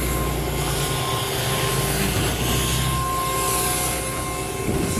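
Steady mechanical drone of a running motor or engine, with a constant high whine over it; a low rumble fades out about a second in.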